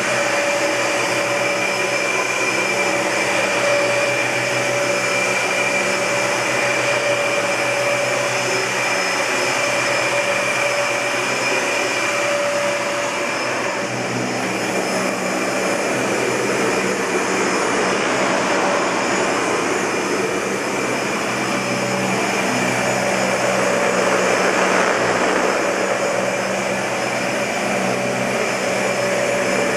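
Dyson Ball Multi-Floor (UP13) bagless upright vacuum cleaner running steadily with a constant whine over its rushing airflow. The tone shifts somewhat in the second half.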